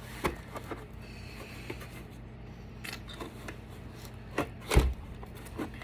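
Light clicks and knocks of a battery backup being pried apart, then one heavy thud near the end as its sealed lead-acid batteries drop out onto the table.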